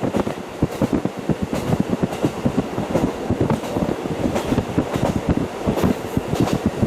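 JR Hokkaido KiHa 40 diesel railcar (KiHa 40-1714) running along the line, heard through fully open windows: a steady rumble of wheels on rail with a quick run of short knocks.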